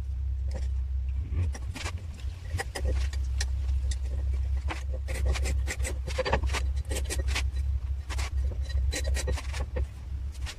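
Irregular sharp clicks and knocks over a steady low hum, busiest in the middle of the stretch.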